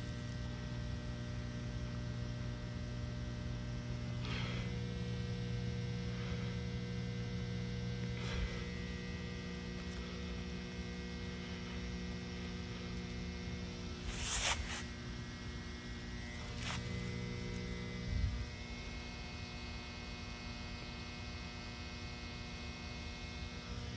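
Electrical box giving off a steady electrical hum, low and unchanging, with fainter higher tones over it. A few brief scuffs or rustles break in here and there.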